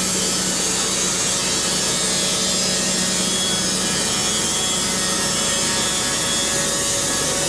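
Diesel-powered band sawmill cutting through a pine log: a steady hiss of the blade in the wood over the even hum of the engine.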